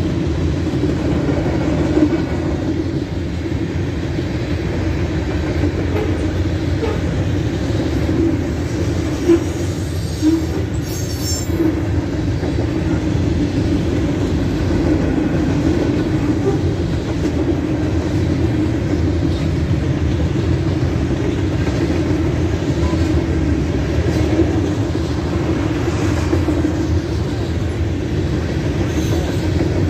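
Freight train rolling past: a continuous rumble of wheels on rail, steady in level, with a brief high squeal about eleven seconds in.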